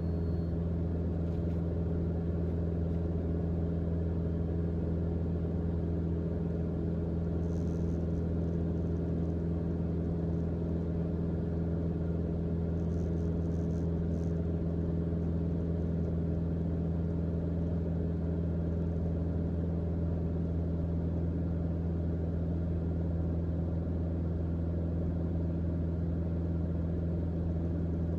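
Steady cruise drone of a Mooney M20J's four-cylinder Lycoming IO-360 engine and propeller at cruise power, heard from inside the cabin. It holds an even, low, unchanging pitch throughout.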